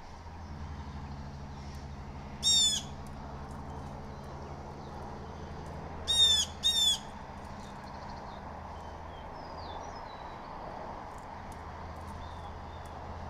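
Blue jay calls: one harsh call, then about four seconds later two more in quick succession. Faint chirps of small birds sound between them.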